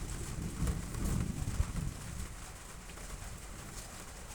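Rain falling as a steady hiss with scattered drips ticking, and low repeated calls in the first two seconds.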